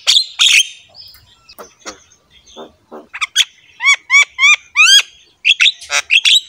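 A bird calling in a quick series of loud chirps, with a run of about five rising whistled notes in the middle.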